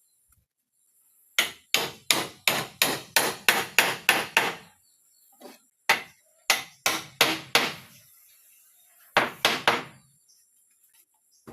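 Hammer striking in quick runs of blows, about three a second: a run of about ten, a lone blow and four more, then three, each with a short ring.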